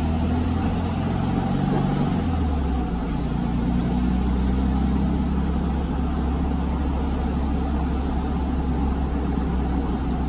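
Air-cooled Volkswagen Beetle flat-four engine running steadily at about 3,500 rpm while cruising, heard from inside the cabin.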